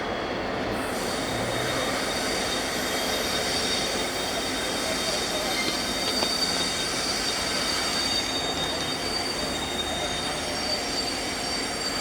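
Railway wheels squealing on the rails as rolling stock moves through the depot: a steady high squeal over continuous rolling noise.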